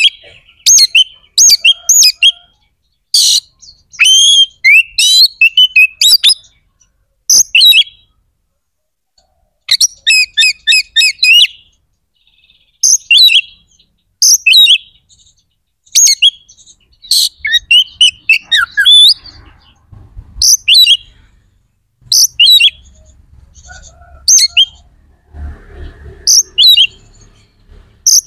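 Oriental magpie-robin (kacer) singing loudly in short, varied phrases of sweeping whistled notes, with a rapid run of repeated notes about ten seconds in and brief pauses between phrases.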